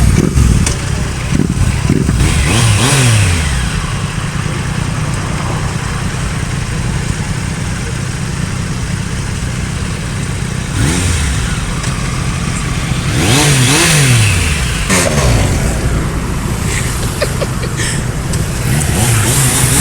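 Motorcycle engines passing over a steady rumble of idling traffic, their pitch dropping as each goes by. This happens about two seconds in, around thirteen to fifteen seconds in, and again near the end.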